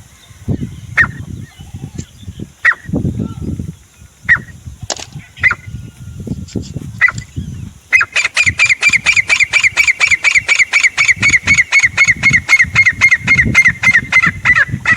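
Grey francolin calling: single sharp call notes about every second and a half, then from about halfway a loud, fast run of repeated notes, roughly six a second, that goes on until near the end. A low rumble lies under the calls.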